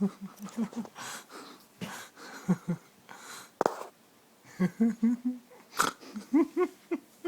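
Soft, breathy laughter in short runs of chuckles, with a few sharp knocks and scrapes from a cardboard cereal box.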